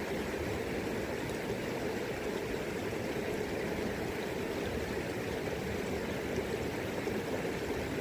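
River current flowing, a steady, even rush of water.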